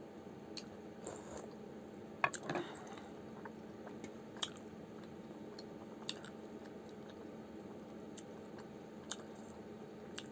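Close-miked chewing and wet mouth sounds of a person eating momos, with scattered small clicks and a short cluster of louder sounds about two seconds in, over a steady low hum.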